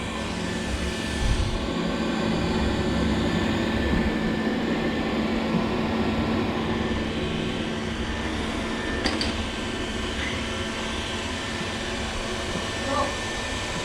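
Xiaomi Mijia robot vacuum cleaner running, its motor and suction fan making a steady whirring drone, with a brief click about nine seconds in.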